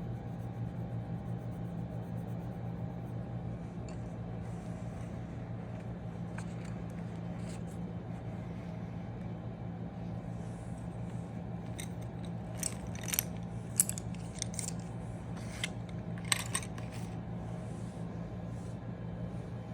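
A cluster of sharp, light clicks and snips about two-thirds of the way through, over a steady low hum, with faint scratchy sounds before them.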